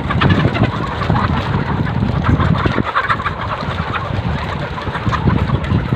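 Flock of laying hens clucking and calling together, many voices overlapping, over a steady low rumble.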